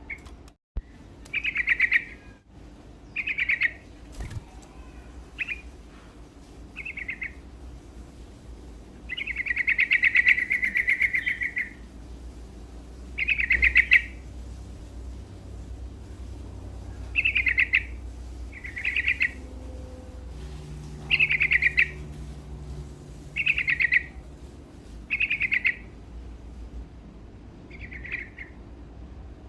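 Sooty-headed bulbul (trucuk) singing: short phrases repeated every one to two seconds, with one longer phrase about ten seconds in.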